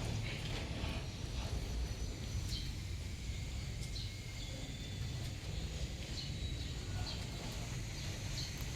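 Small birds chirping now and then, short high calls and a few thin whistled notes, over a steady low rumble.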